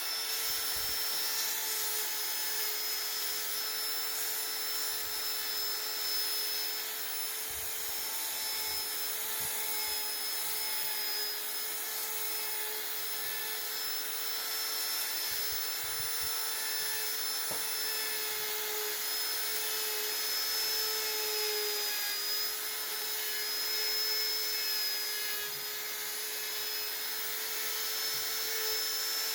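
Small high-speed electric rotary carving tool running steadily with a constant high whine, its bit grinding into wood; the pitch dips slightly now and then as the bit bears harder on the wood.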